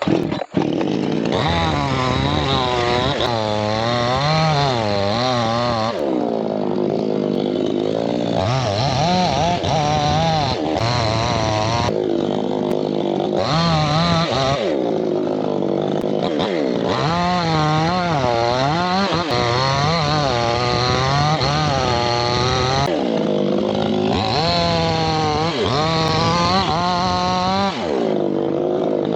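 Two-stroke chainsaw starting suddenly and running hard while cutting teak, its engine speed rising and dropping again and again.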